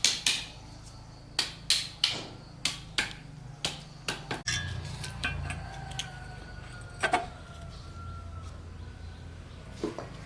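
Sharp metallic knocks of a tool striking metal parts, about ten in quick succession over the first four and a half seconds. A steady low hum then sets in, with a faint, slowly falling whine and three more scattered knocks.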